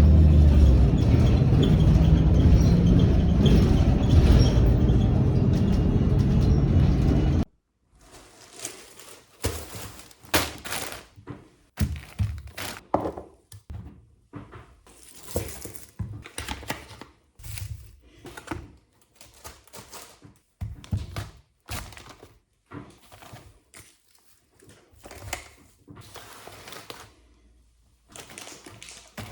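Lo-fi background music that cuts off suddenly about seven seconds in. After that come irregular small knocks, taps and clicks of household objects being handled, several a second at times, with short pauses between them.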